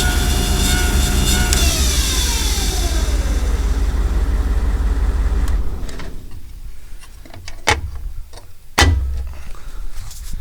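The bucket truck's hydraulically driven 110 V AC generator hums steadily, then is switched off about a second and a half in, its pitch falling as it spins down. The remaining machine noise stops about six seconds in, followed by two sharp knocks.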